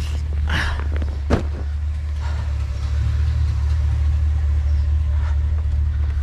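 Truck engine running with a steady low rumble, and a single brief knock about a second and a half in.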